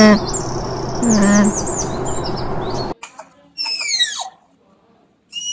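Birds chirping over a steady outdoor background, with one short, low pitched call about a second in. After about three seconds the background cuts out abruptly, and sharp high calls that sweep downward follow, twice.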